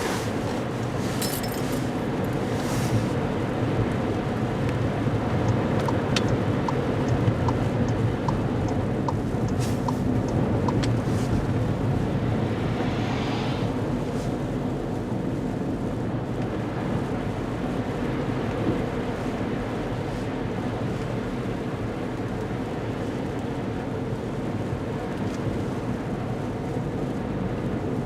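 Steady road and engine noise of a car driving on a snowy highway. A run of light ticks, about two a second, comes for a few seconds in the middle, and a brief hiss follows.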